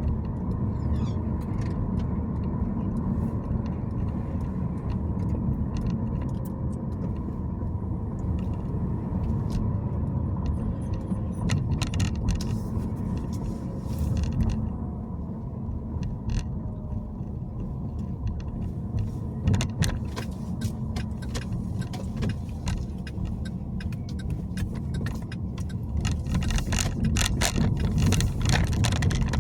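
Car driving, with a steady low road and engine rumble and many small clicks and rattles that grow busiest near the end.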